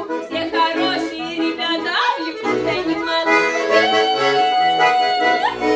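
Accordion playing a Russian folk tune: a melody over a steady, rhythmic bass-and-chord accompaniment, with a long held note near the end that slides upward.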